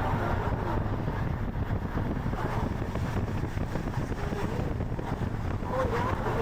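Steady road and wind noise of a car driving along.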